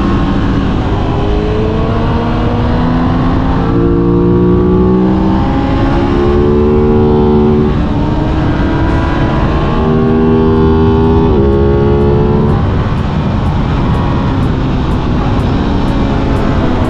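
Aprilia RS 660 sport motorcycle's parallel-twin engine under way, its pitch climbing and then dropping as it shifts gears several times, over a constant rush of wind.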